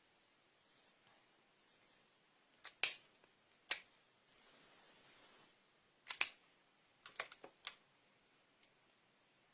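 Markers being handled on a craft table: a string of sharp plastic clicks, with a scratchy hiss lasting about a second near the middle.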